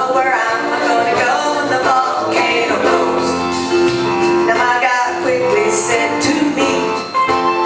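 Live country-style music: a singer over instrumental backing.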